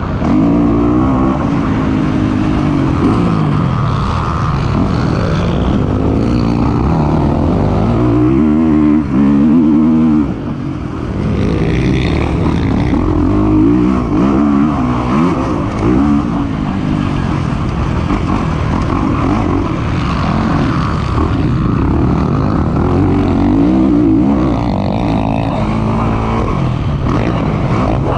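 Kawasaki KX450 four-stroke single-cylinder dirt bike engine ridden hard, its pitch repeatedly rising under throttle and dropping off, with a brief throttle chop about ten seconds in.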